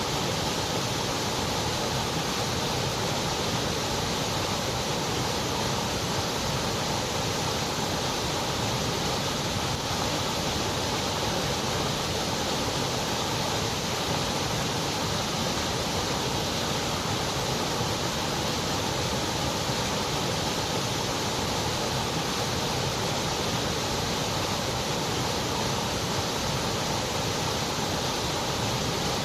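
Continuous white noise: a steady, even hiss that does not change, a little duller above the upper treble.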